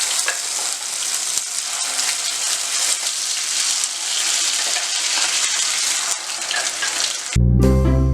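Freshly ground onion-tomato paste sizzling and spattering in hot oil in a pan. About seven seconds in, the sizzle cuts off and plucked-string music begins.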